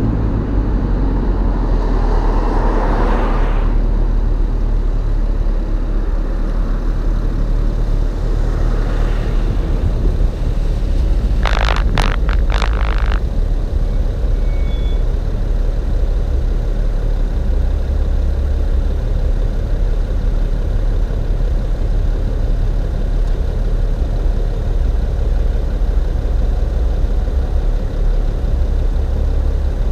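BMW E39 540i's 4.4-litre V8 exhaust, heard from the rear, running at low, steady revs with a deep rumble. A few sharp clicks come about twelve seconds in.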